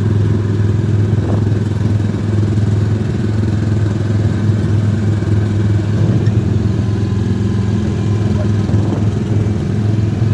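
Car engine and road noise heard from inside the moving car: a steady, even low drone.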